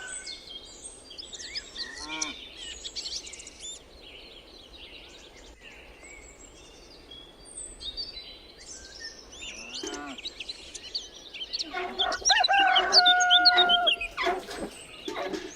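Small birds chirping continuously, with a few hen calls, and a rooster crowing loudly about twelve seconds in.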